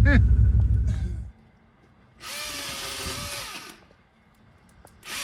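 Milwaukee M18 battery chainsaw with a 16-inch bar revved in two short bursts of about a second and a half each, a steady whine of motor and chain. Before the first burst, a loud low rumble cuts off about a second in.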